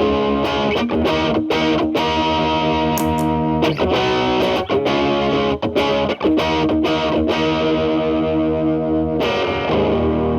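Telecaster electric guitar played through an MI Audio Crunch Box distortion pedal at gain 10 into a Marshall Valvestate amp's clean channel: overdriven picked notes and chords, with a chord struck near the end and left ringing.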